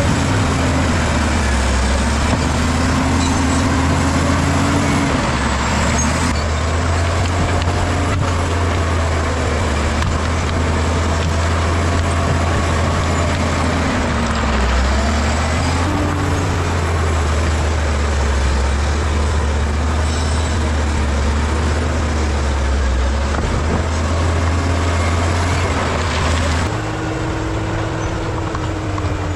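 Bulldozer's diesel engine running hard with a deep steady rumble, its pitch rising and dipping as the load changes, over a heavy mechanical din. Near the end the sound changes suddenly to a slightly quieter, steadier hum.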